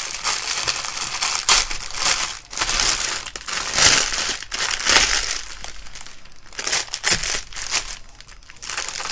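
Clear plastic wrapping crinkling and rustling as it is handled and pulled off a rolled diamond painting kit, on and off, loudest about four and five seconds in.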